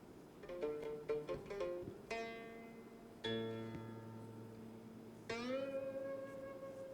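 Background music on a plucked zither: a quick run of notes, then single notes left to ring, and a note bent upward in pitch about five seconds in.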